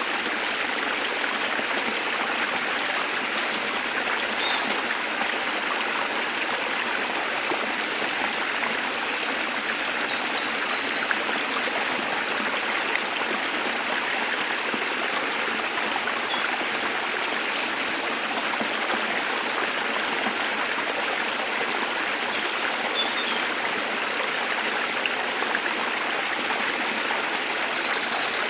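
Waterfall's water falling and rushing in a steady, unbroken wash, with a few faint, brief high chirps of birds now and then.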